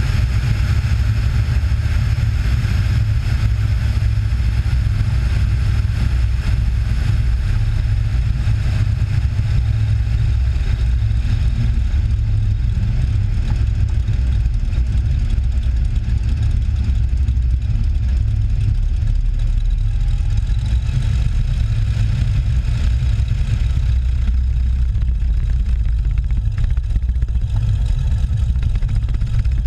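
Cessna 182's piston engine and propeller droning steadily in flight, a constant low rumble with no change in power.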